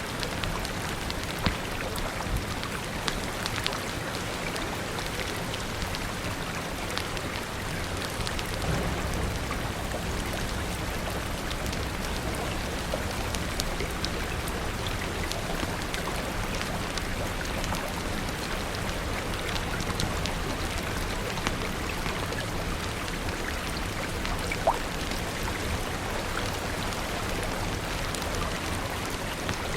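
Steady rain falling, mixed with a crackling fire: many small scattered pops and clicks over an even hiss and a low steady rumble. Two louder sharp pops come about a second and a half in and near the end.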